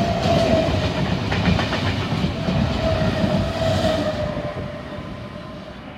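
V-set double-deck interurban electric train passing close by: a low rumble with clicks of the wheels on the track and a steady whine, fading over the last couple of seconds as it moves away.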